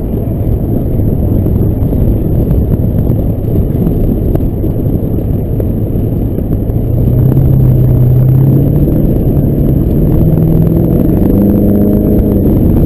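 Chevrolet Duramax LB7 turbo-diesel pickup driving with a heavy low rumble. About seven seconds in the engine gets louder and its note climbs in steps as the truck accelerates.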